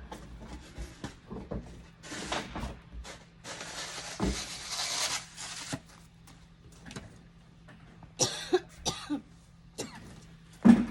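Scattered knocks and rustling, with two stretches of hiss. Near the end a person coughs a few times in short loud bursts.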